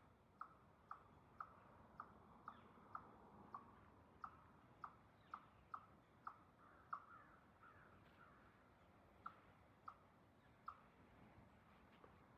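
Faint, short falling chirps repeated about twice a second, spacing out and becoming irregular after about eight seconds, from a small calling animal.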